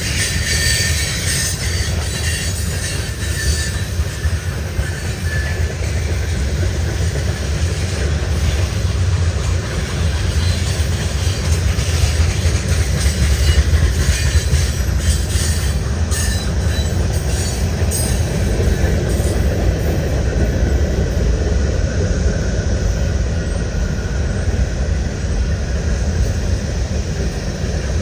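Canadian National freight train's cars rolling past: a steady, loud rumble of steel wheels on rail, with scattered clicks.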